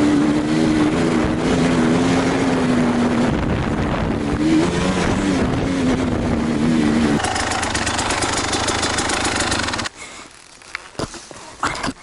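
Enduro motorcycle engine running on the trail, its pitch wavering with the throttle. About seven seconds in the note turns rougher and noisier, and just before ten seconds it drops away suddenly, leaving only quieter scattered clicks.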